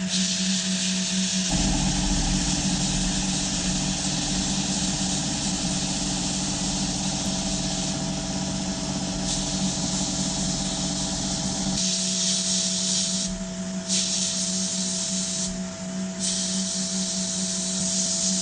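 Electric power tool running steadily with a constant motor hum and a hiss that cuts in and out several times, typical of an abrasive working on steel. A deeper rumble joins from about a second and a half in and drops away after about twelve seconds.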